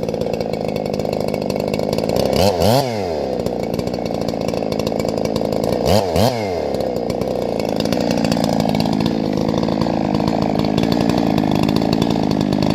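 Two-stroke gas chainsaw running at high speed. Its pitch dips sharply and climbs back twice, a few seconds apart, then holds steadier with a slight waver.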